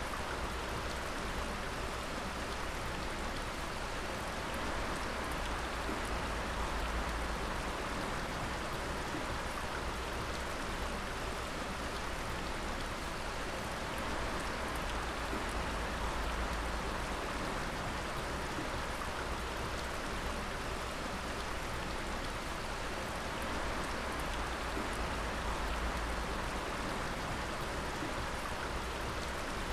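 Water dripping and splashing steadily, many drops falling together in a dense, even patter like rain, over a low rumble.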